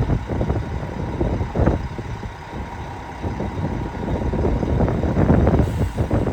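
2001 Mack dump truck's diesel engine running at a steady low rumble.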